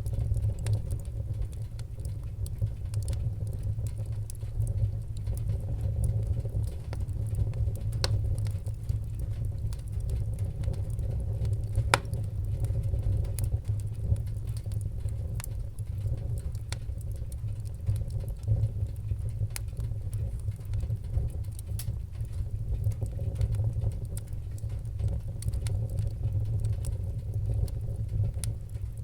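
Wood fire burning in a fireplace: a steady low rumble of flames with scattered sharp crackles and pops, the loudest pop about twelve seconds in.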